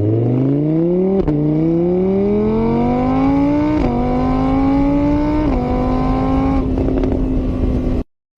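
Car engine accelerating through the gears: the pitch climbs, drops back at each of three gear changes, then holds steady before cutting off suddenly near the end.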